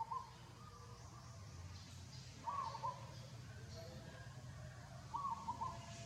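An animal's short call, repeated three times at an even spacing of a little under three seconds, over a low background hum.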